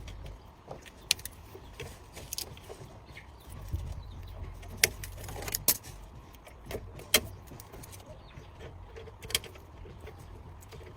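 Irregular sharp clicks and metallic clinks, as of parts and hand tools being handled, with louder ones about five and seven seconds in, over a low steady rumble.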